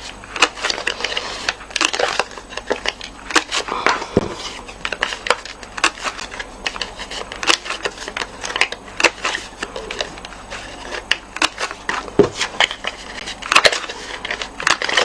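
Handheld corner-rounder punch (Stampin' Up! Corner Chomper) snapping the corners off small card panels. Many sharp, irregular clicks, mixed with the sound of the card being handled.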